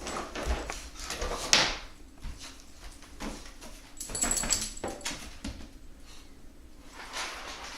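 Puppy whimpering, with irregular scuffling noises and short knocks as it plays.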